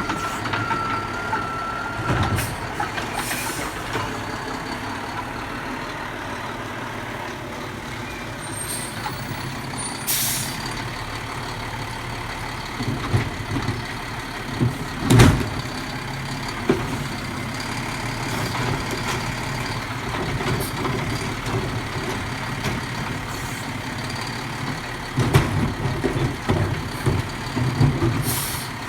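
Garbage truck running, with a high tone at the start, short bursts of air hiss, and one sharp loud bang about halfway through. There is more knocking near the end.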